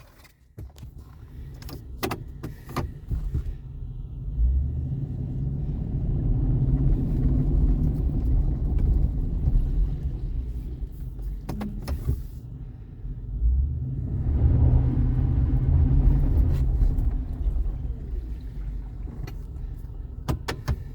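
2019 Ford F-350 pickup's engine running with a low rumble, growing louder about five seconds in and again around fourteen seconds, with a few sharp clicks along the way.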